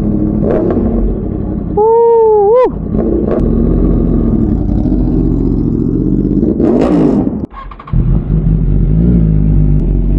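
Motorcycle engines running close by, with a rev that rises and falls about seven seconds in and a short wavering tone about two seconds in. The sound drops out briefly near the end, then the engines resume.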